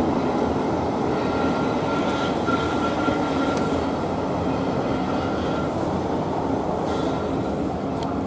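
Heritage train carriages rolling out of a station, heard from an open carriage window: a steady rumble of the train on the rails. A faint thin squeal from the wheels runs from about two seconds in until nearly six seconds.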